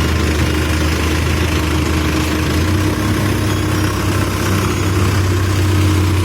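Diesel engine of a CASE backhoe loader running steadily at low revs, with a steady hum.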